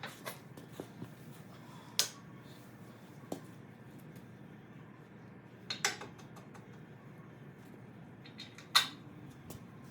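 Scattered metal clinks and clanks of hand tools on steel parts during pin and bushing work on a skid steer's attachment plate. The sharpest knocks come about two seconds in, as a quick double near six seconds, and near nine seconds.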